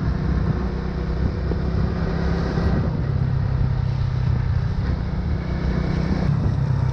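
Motorbike engine running steadily while riding at an even speed, its low hum under a constant rush of wind and road noise.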